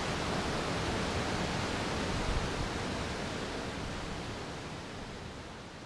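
Steady rush of falling water from a waterfall, growing gradually fainter over the last few seconds.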